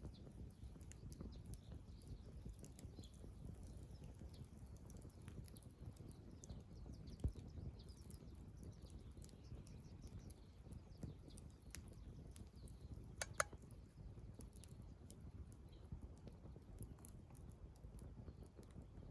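Small campfire crackling faintly, with scattered tiny pops and two louder pops, about seven and thirteen seconds in. Birds chirp faintly in the background.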